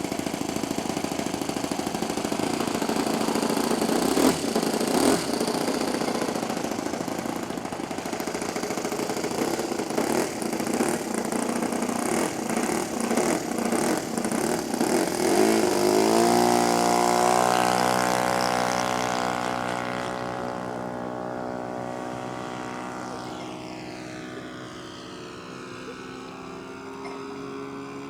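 Model aircraft's Saito FG-11 four-stroke petrol engine running roughly at low throttle, then opened up about halfway through: the pitch rises to a steady high drone that grows fainter as the plane moves away.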